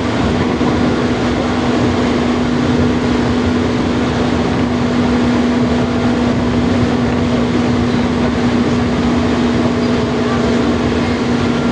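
Steady running noise of a train at a rail depot: a continuous low hum with one held tone over an even rushing noise, unchanging throughout.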